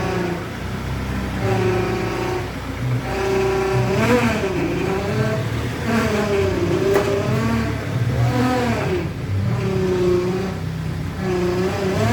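Ford Transit Connect 1.8 TDCi power steering pump whining and moaning in repeated rising and falling glides as the steering wheel is turned from side to side, over the diesel engine idling. The noise is the sign of air in the hydraulic steering circuit after a loss of fluid.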